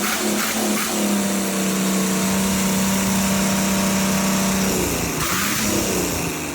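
A 500-horsepower engine revved up and held at steady high revs for a few seconds, then the revs drop off near the end.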